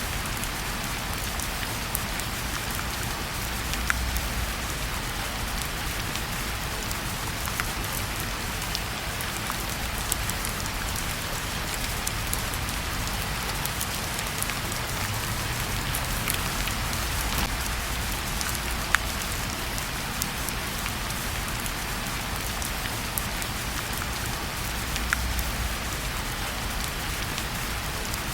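Steady rain falling, with a fireplace crackling: scattered sharp pops over the even hiss of the rain, and a low rumble that swells a few times.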